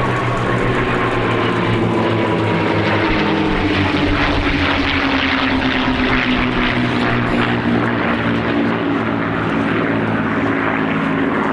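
P-51D Mustangs' Packard Merlin V-12 piston engines running in a display flypast, with a steady loud propeller drone whose pitch slides slowly down as the aircraft pass and move away.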